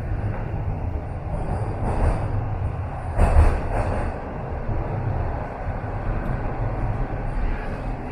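TTC subway train running between stations, heard from inside the car: a steady low rumble of wheels on track, with a louder clatter a little past three seconds in.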